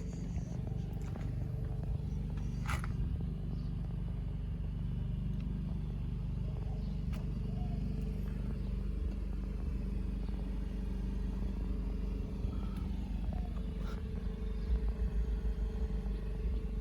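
BMW X3 xDrive35i's turbocharged 3.0-litre straight-six idling steadily, with one short click about three seconds in.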